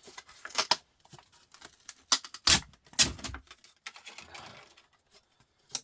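Scattered clicks and knocks of hard plastic and metal laptop parts being handled and set down during a teardown, with a short rustle about four seconds in.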